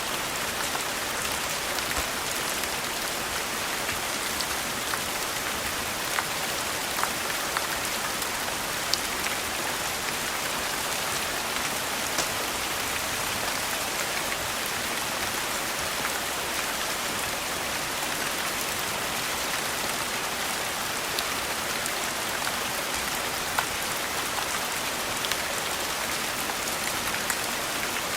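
Steady rain, an even hiss, with scattered sharp clicks and pops every second or two.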